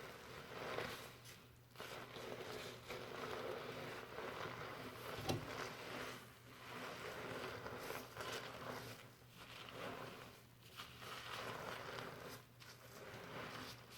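Fingers scrubbing shampoo lather through hair, a soft crackling rustle of foam that comes in strokes with short pauses between them. A sharp click sounds once about five seconds in.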